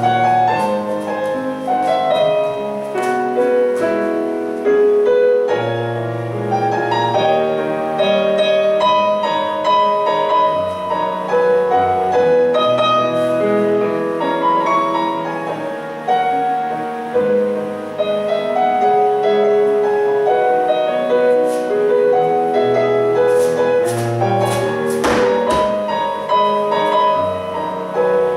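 Piano music: a melody of held notes over a bass line, changing note every second or so, with a few brief clicks about three-quarters of the way through.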